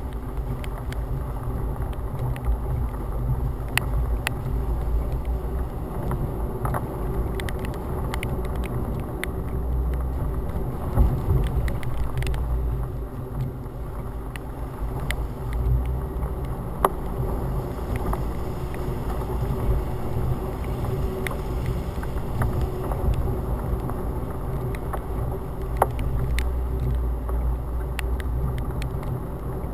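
Storm wind buffeting a hood-mounted GoPro in its housing: a steady low rumble, with scattered sharp ticks throughout.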